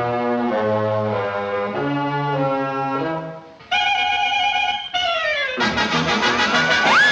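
Brass-led cartoon orchestra score: a run of stepping notes, a brief drop-out, a held chord, a downward slide, then a loud full chord with a swooping tone near the end.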